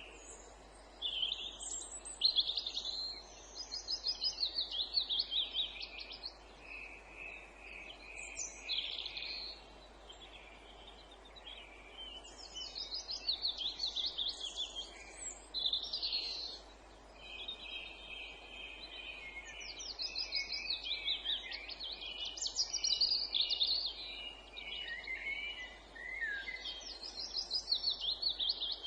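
Several songbirds singing at once, overlapping phrases of fast trills and runs of repeated whistled notes, over a faint steady background hiss.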